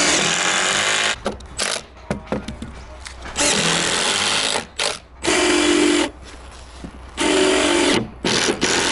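Power drill running in repeated bursts of about a second each, stopping and starting several times.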